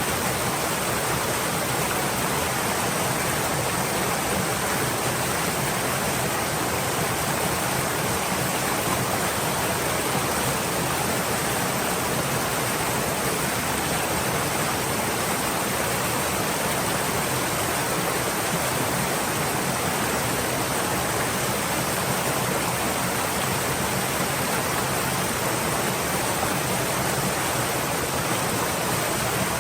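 Stream water flowing over rocks, a steady, even rushing with no change.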